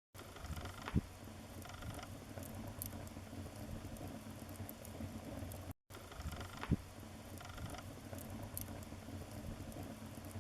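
Wood fire in a fireplace crackling steadily with small ticks and pops, and a sharp louder pop about a second in and again about two-thirds of the way through. The sound cuts out for a moment just past the middle.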